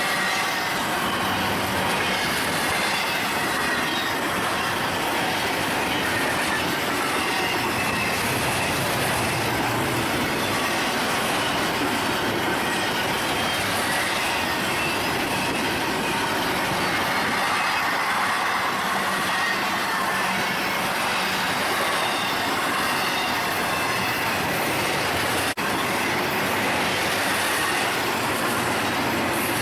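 A long train's cars rolling past, steel wheels running on the rails with a steady rumble and a faint wavering squeal of wheels on rail.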